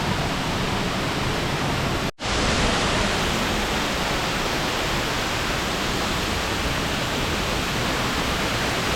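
Steady rush of a waterfall, Neluwa Duwili Ella's first tier, pouring over rock. The sound cuts out for an instant about two seconds in, then carries on unchanged.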